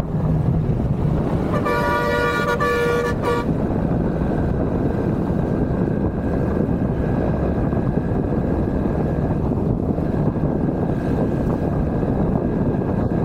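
A vehicle horn sounds once, for about a second and a half, a couple of seconds in, over a steady rush of wind and road noise from moving traffic.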